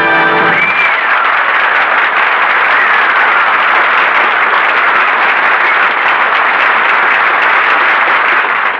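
Studio audience applauding steadily at the act break, right after the organ music cuts off under a second in, with a couple of short whistles rising out of it near the start.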